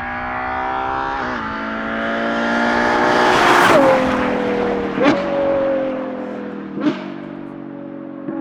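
Ferrari Purosangue's naturally aspirated V12 through a Novitec race exhaust with X-pipe, accelerating through a quick upshift about a second in. It climbs to its loudest a little over three seconds in, then lifts off and falls in pitch. Two sharp cracks with short revs come near five and seven seconds, as on downshifts.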